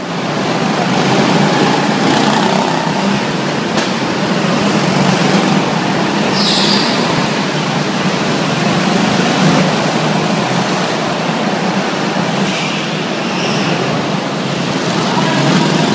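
Go-karts running laps on an indoor kart track: a loud, steady drone of kart engines.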